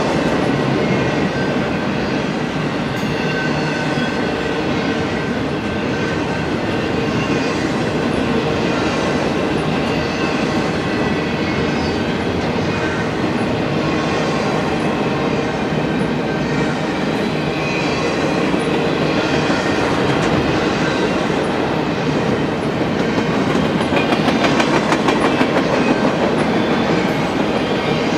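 Double-stack intermodal freight cars rolling past: the steady noise of steel wheels on rail, with clickety-clack and faint high squealing tones. A run of sharper clicks comes near the end, where it is a little louder.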